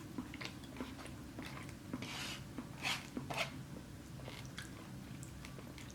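A person chewing and biting food close to the microphone, with soft wet smacks and light crunches coming irregularly, a few louder ones about two to three and a half seconds in.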